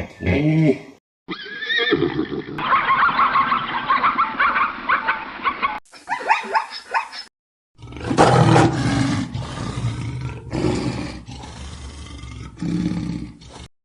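Animal calls in several short clips, cut abruptly one after another.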